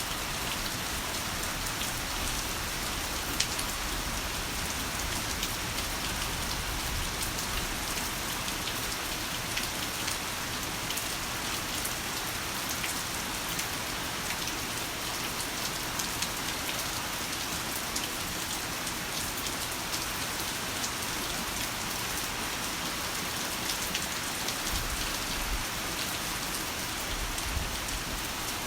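Heavy rain falling steadily, a dense hiss with many sharp individual drop hits.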